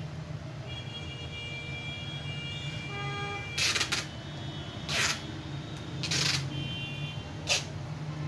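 Packing being done by hand: four short rasping bursts spread over a few seconds, like packing tape or plastic wrap being handled, over a steady low traffic hum with a faint drawn-out horn-like tone early on.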